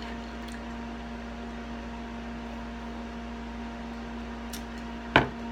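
Steady electrical appliance hum with a constant low tone over a faint hiss, a couple of faint clicks, and one sharp knock about five seconds in.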